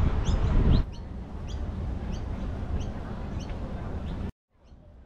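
A small bird chirping over and over, a short high chirp about twice a second, over a low background rumble that drops away about a second in. The sound cuts off abruptly a little after four seconds in.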